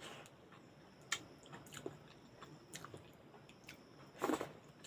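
A person chewing a hand-fed mouthful of rice with cooked leafy greens and potato: soft, wet mouth sounds and small clicks, with one louder smack about four seconds in as another handful goes into the mouth.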